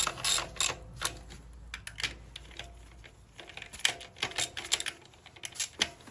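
Irregular bursts of small metallic clicks as nuts are fitted and run down with a hand ratchet, with loose taps of metal parts in between.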